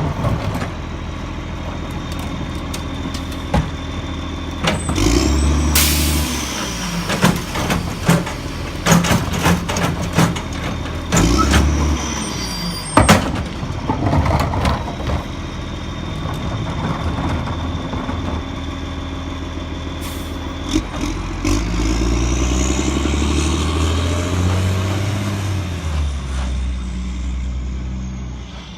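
Lodal Evo garbage truck's engine running and revving up several times, with repeated clanks and knocks of a cart being handled and a sharp air hiss about six seconds in. In the second half the engine revs climb for several seconds, then the sound fades out at the end.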